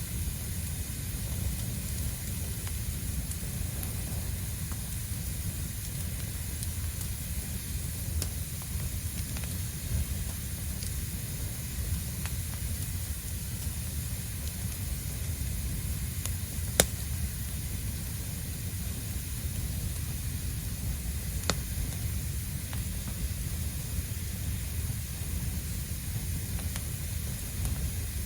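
Bonfire of dry fallen leaves and twigs burning with a steady hiss and rush, broken by occasional sharp crackles, the loudest about 17 seconds in and another about 21 seconds in.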